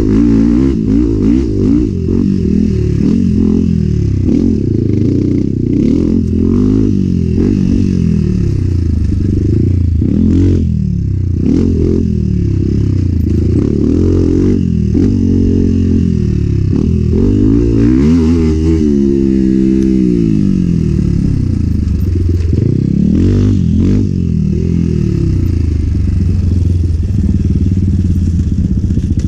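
Enduro motorcycle engine revving up and down again and again as the throttle is worked and gears are changed while riding a trail, with scattered knocks and clatter.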